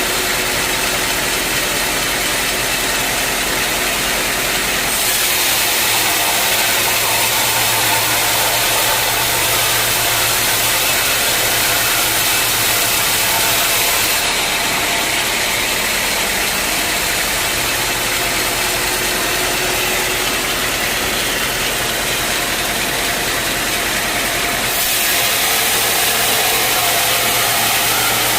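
Sawmill saw machinery running steadily and loudly, a dense mechanical noise over a low hum. Its high hiss shifts abruptly three times.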